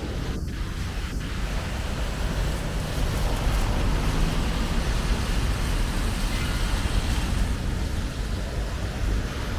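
Steady city ambience: a low rumble and hiss, like traffic.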